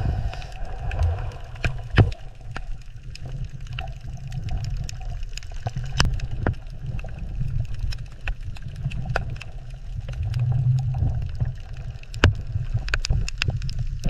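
Water ambience: a low, churning rumble with scattered sharp clicks and pops.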